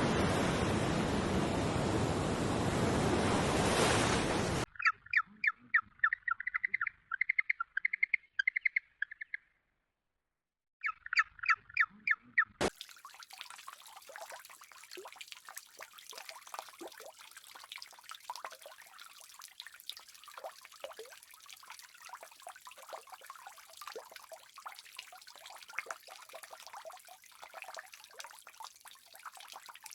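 A steady rushing noise cuts off suddenly and gives way to rapid, bird-like chirping in two quick runs with a short silence between them. A fine, crackling trickle of water sounds follows.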